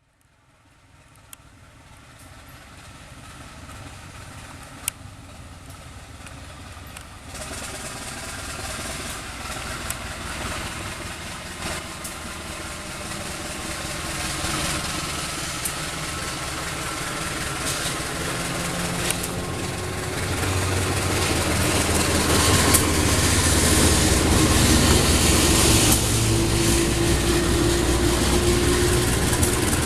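Diesel locomotive engine and train noise growing steadily louder as a train approaches, with a low engine drone and a few sharp clicks along the way.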